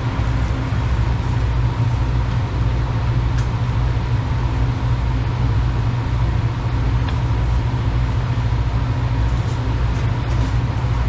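A motor running steadily with a deep, even hum and a faint high whine, with no change in pace.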